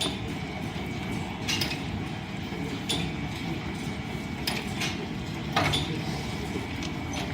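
Line-shaft-driven wood lathe and its belt drive running with a steady rumble, with a sharp click about every second and a half.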